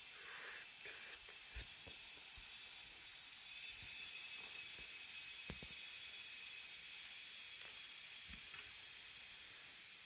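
Steady high-pitched drone of insects in the forest, growing louder about three and a half seconds in, with a few soft low thumps.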